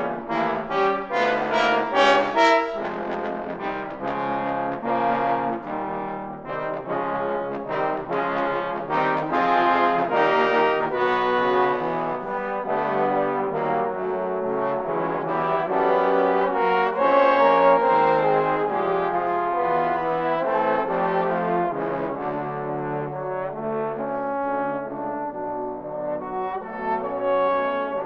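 Trombone choir playing in harmony: short, accented chords in the first few seconds, then longer held chords moving under one another.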